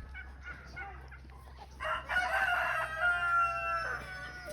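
Rooster crowing once, a long call starting about two seconds in and dropping in pitch at its end, after a few faint short fowl calls.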